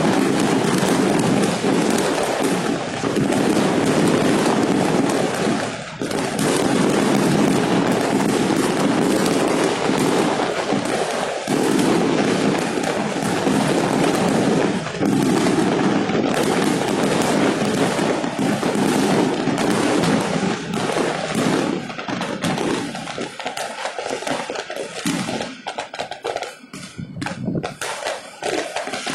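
A dense, continuous barrage of fireworks and firecrackers crackling and banging, thinning out to scattered separate bangs over the last several seconds.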